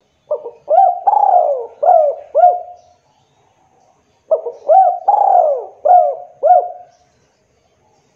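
Spotted dove (tekukur) cooing: two song phrases a second or so apart. Each phrase is a short note followed by several rising-then-falling coos, one of them longer.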